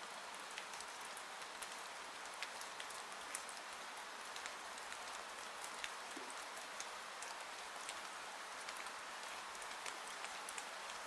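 Steady rain hissing against a window, with scattered single drops ticking sharply on the glass.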